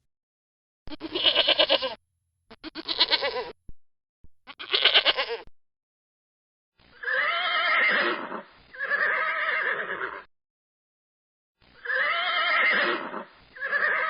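Farm animal calls: three short, quavering calls in quick succession, then after a pause four longer calls in two pairs.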